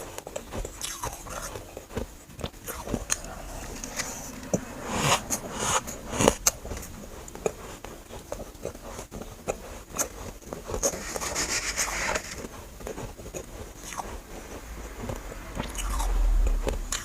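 Close-up biting and chewing of freezer frost chunks: irregular crunching and crackling bites, heavier in a couple of clusters, with a low bump near the end.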